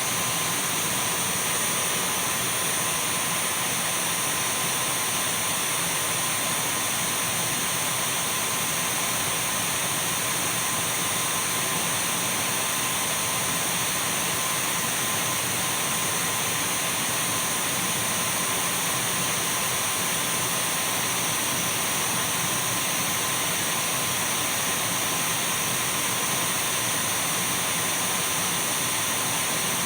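Dyson V12 cordless stick vacuum running steadily: an even rush of airflow with a thin high whine.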